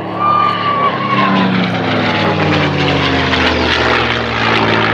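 P-51D Mustang's Packard-built Merlin V12 engine as the fighter makes a fly-past, the pitch of its drone falling as it goes by. A thin high whistle, which the uploader puts down to the wing gun ports, sounds near the start.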